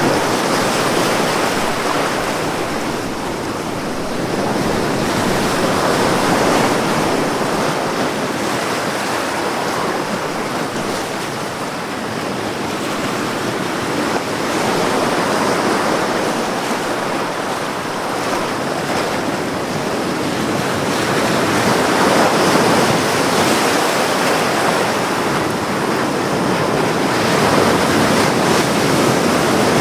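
Ocean waves washing onto a beach in a continuous surf, swelling and easing every few seconds.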